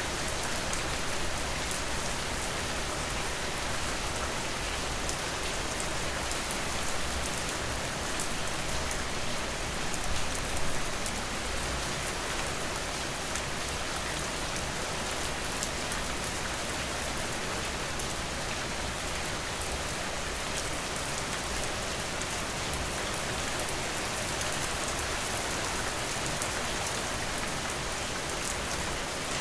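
Steady rain falling, an even hiss with many scattered sharp drip ticks, swelling briefly about ten seconds in.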